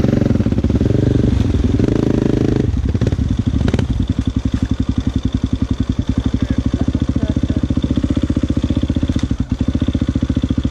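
Motocross dirt bike engine running loud for the first few seconds, then dropping back to a steady, evenly pulsing idle.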